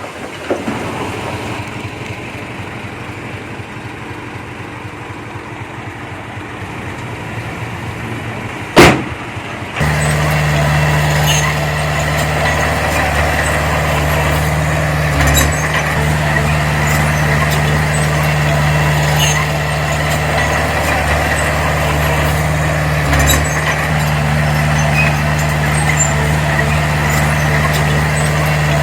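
Diesel engine of heavy earthmoving machinery running. A sharp knock comes about nine seconds in, and right after it the engine sound jumps much louder and turns into a steady low hum with scattered high clicks and squeaks over it.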